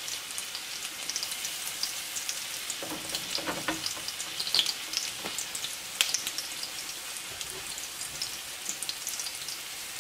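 Onion and garlic frying in hot lard in a clay pot, a steady sizzle dotted with small crackling pops and one sharper click about six seconds in. The onion is being softened for the beans' sofrito.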